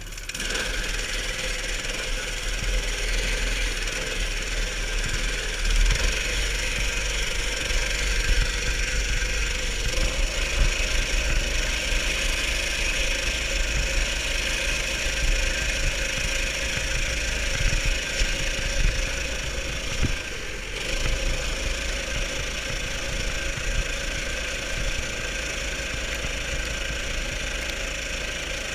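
Baja Warrior mini bike's 290cc engine running steadily, with a brief drop in level about twenty seconds in.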